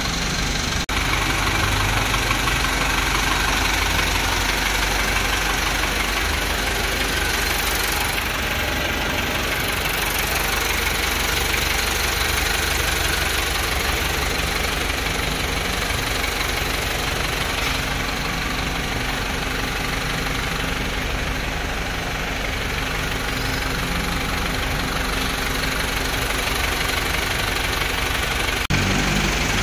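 Toyota Land Cruiser hardtop's engine idling steadily, with the newly fitted air conditioning running.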